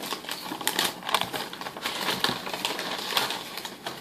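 Rustling and crinkling of packaging with many short, irregular clicks as a sneaker box is opened and its contents are handled.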